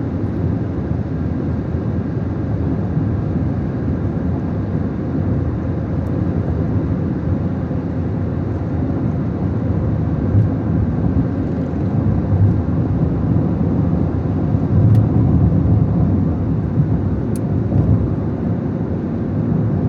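A car on the move: a steady low engine and road rumble.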